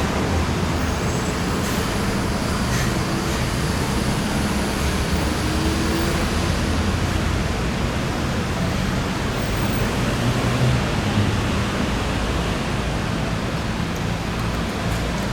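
Steady traffic or vehicle running noise: an even, unbroken noise with a low hum and no distinct events.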